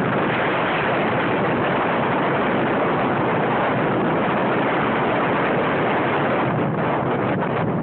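Hurricane-force wind blowing hard against a phone's microphone: a steady, loud rush of noise.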